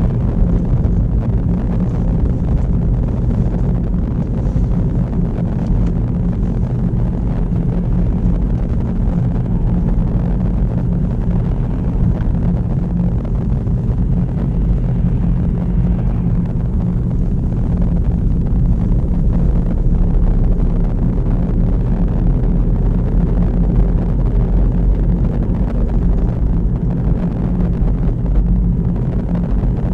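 Steady low drone of a petrol car being driven: engine and road noise.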